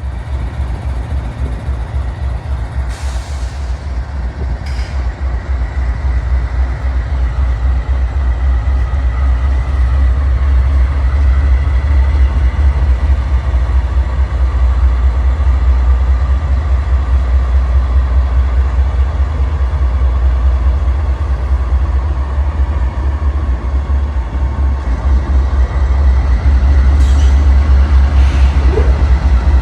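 Train passing close by: a heavy, steady rumble that pulses quickly and grows louder over the first few seconds, with a few brief hisses.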